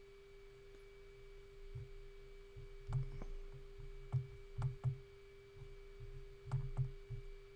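Scattered computer mouse clicks and light knocks on the desk, several in quick pairs, over a steady faint electrical hum.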